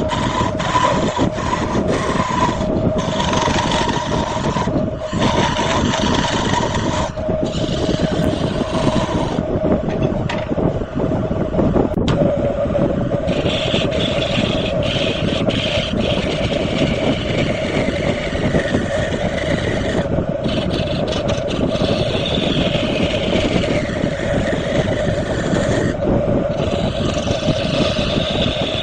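Wood lathe motor running with a steady hum while a hand-held turning tool cuts and scrapes the spinning wood. The cutting hiss comes and goes in stretches with short breaks.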